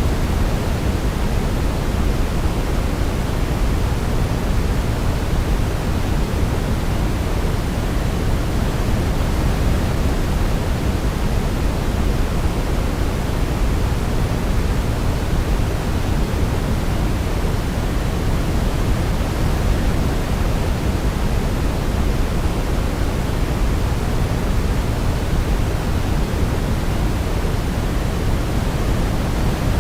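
Steady sleep white noise: an even, unchanging hiss that is heavier in the low end, like pink noise.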